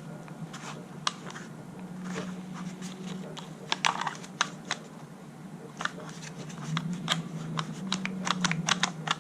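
Sharp clicks and clacks of a Dorman fuel line kit's hand tool pressing a straight fitting onto a 5/16 fuel line, coming faster and closer together near the end as the fitting seats. A low steady hum runs underneath.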